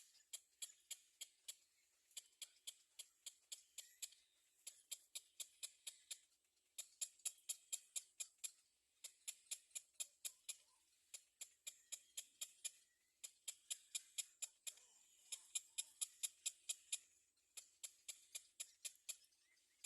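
Small birds, likely olive-backed sunbirds at the nest, giving rapid series of high, sharp chip calls, about six a second, in runs of one to two seconds with short breaks between.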